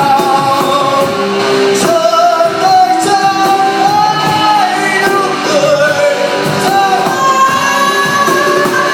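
Rock song played live by a band, with a singer holding long, sliding notes over the band.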